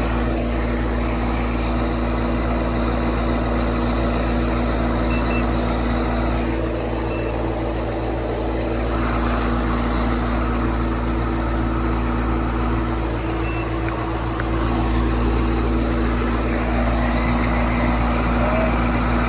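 Outdoor air-conditioning condensing unit running: a steady electrical hum from the compressor with the rush of the condenser fan.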